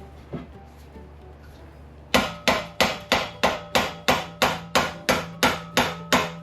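A hammer striking metal in a steady run of thirteen blows, about three a second, each ringing briefly. The blows begin about two seconds in.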